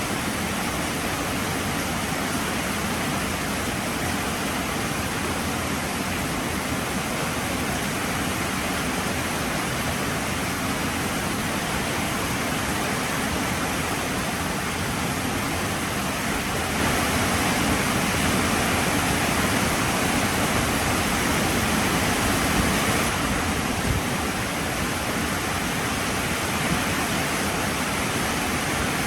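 Heavy rain falling steadily, a dense even hiss that swells louder for several seconds past the middle.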